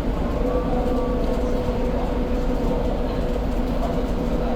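Inside a city bus cruising at steady speed: engine and road rumble with a steady whine from the drivetrain.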